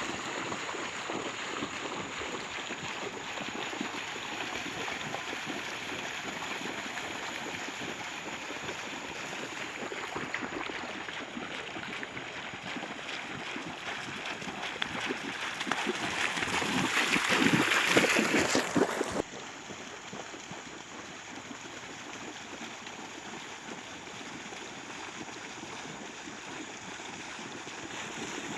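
Steady rush of moving water. It swells to its loudest about eighteen seconds in, then drops off suddenly and carries on quieter.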